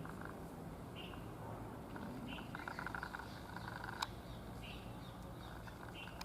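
Birds calling: a short high chirp repeats about every second and a half, mixed with stretches of rapid chattering, and a single sharp click about four seconds in.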